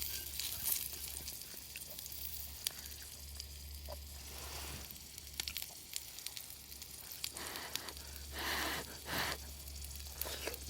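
Food sizzling over a wood fire in a fire pit, with scattered small crackles and pops. There are two brief louder swells of noise about eight and nine seconds in.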